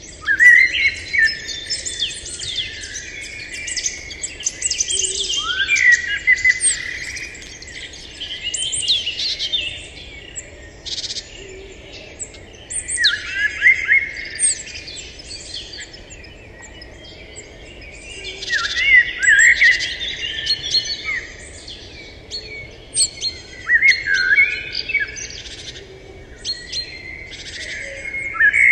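Songbirds chirping and singing: a busy phrase of quick whistles and sweeping notes comes back about every five seconds, with scattered chirps between.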